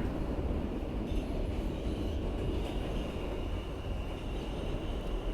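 R160B subway car running along the track, heard from inside the train: a steady low rumble of wheels on rail, with a faint steady high-pitched whine over it.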